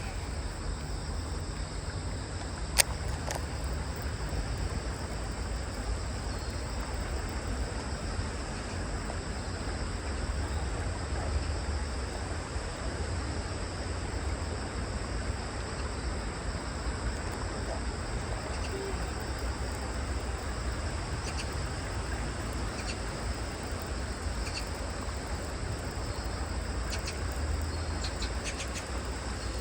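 Steady chorus of crickets and other autumn insects over a low rumble, with one sharp click about three seconds in.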